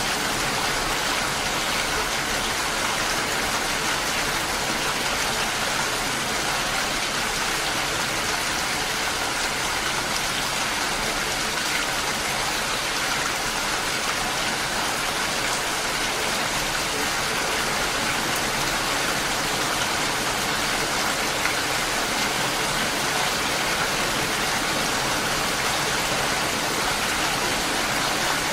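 Steady heavy rain falling, an even, unbroken hiss with no single drops or thunder standing out.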